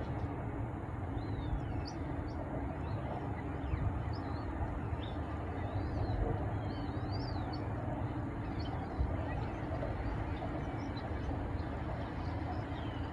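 Steady low background rumble with small birds chirping repeatedly over it.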